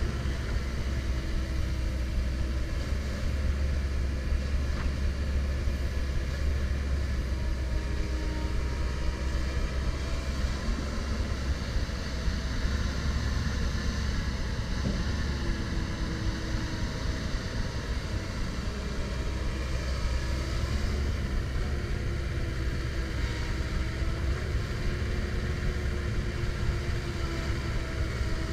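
Komatsu PC170LC-10 tracked excavator's diesel engine running steadily with a low rumble, with a faint whine that shifts a little in pitch now and then.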